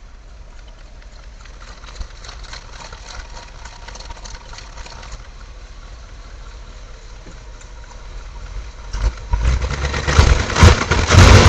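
1970 Chevy K5 Blazer engine running at idle just after starting from a long sit, then much louder and uneven from about nine seconds in.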